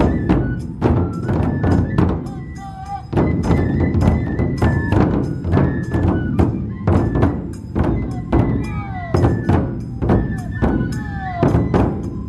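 Matsue dou drum festival music: large barrel drums beaten in a fast, steady rhythm under a high bamboo flute melody with short slides between notes.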